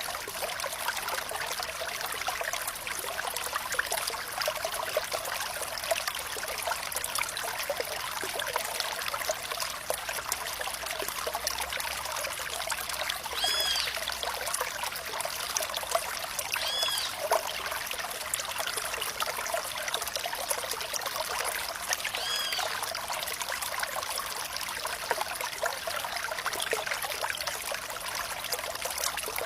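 Flowing water trickling steadily, a dense patter of small splashes and drips. Three short, high chirps stand out in the second half.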